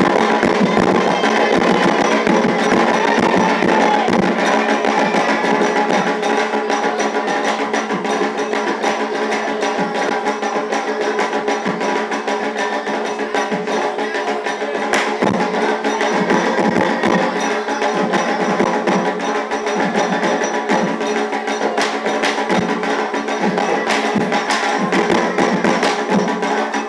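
Afro-Brazilian ceremonial drumming for Xangô: hand drums and a clacking wood-block-like percussion part playing a continuous, fast rhythm.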